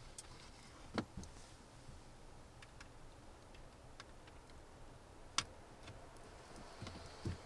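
A few sharp clicks and knocks, seconds apart, the loudest about a second in and about five and a half seconds in, over a faint low rumble.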